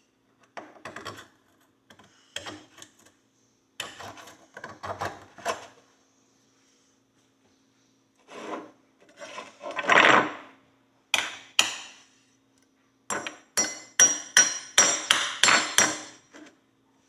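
Hand tools scraping and knocking against a metal horseshoe being cleaned, in irregular short bursts, ending in a quick run of sharp metallic scrapes. A faint steady hum lies underneath.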